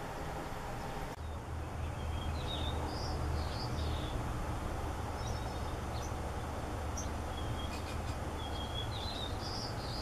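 Scattered short, high bird chirps over a steady low rumble of outdoor background noise.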